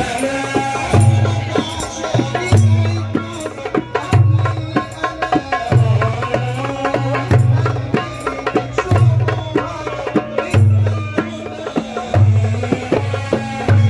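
Live Port Said simsimiyya folk music: a plucked simsimiyya lyre playing a quick melody over hand percussion and a deep bass beat that repeats about once a second.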